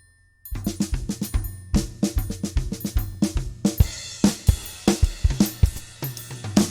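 Drum kit music with a low bass line, starting about half a second in with kick and snare hits, and cymbals filling in from about four seconds.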